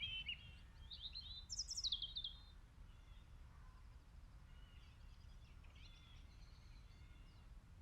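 Birds chirping faintly: a run of short, quick chirps in the first two seconds or so, then only scattered faint calls.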